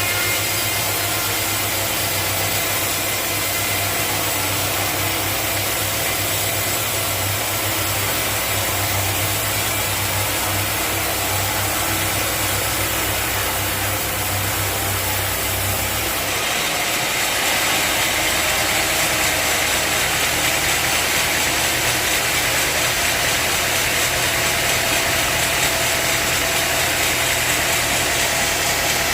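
Sawmill machinery running steadily with a low engine-like hum. About two-thirds of the way through, the low hum drops away and a brighter hiss rises as the level goes up a little.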